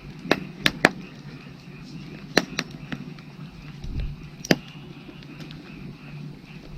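Firewood burning in an open fire, crackling with sharp irregular pops, a few of them louder. A faint chorus of frogs calls steadily underneath.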